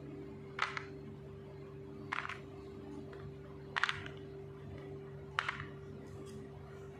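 Small clay bricks set down one at a time into a plastic toy truck bed: four light clacks about a second and a half apart, over a steady low hum.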